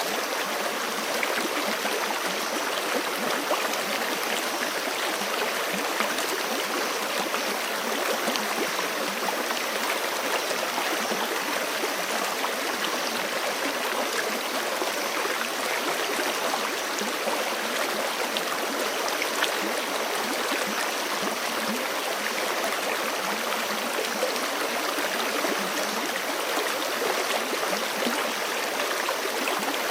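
Forest creek running over rocks: a steady, unbroken rush of flowing water.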